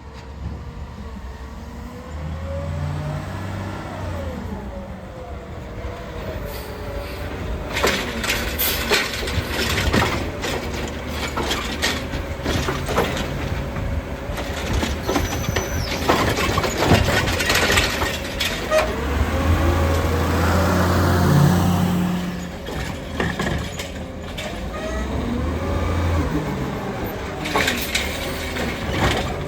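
Heil Rapid Rail automated side-loader garbage truck at work: the engine rumbles and revs up a few times, with a run of sharp clanks and bangs in the middle of the cart-dumping cycle, and hisses of air brakes.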